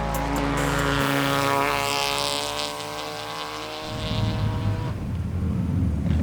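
Rally car engine going by at speed on a forest stage: its note falls slowly in pitch as it passes, with tyre and gravel hiss. A low rumble takes over about four seconds in.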